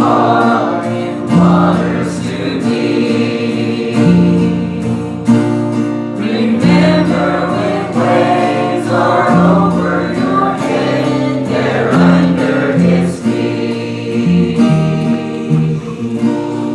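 A congregation singing a hymn together with instrumental accompaniment, held chords over a moving bass line.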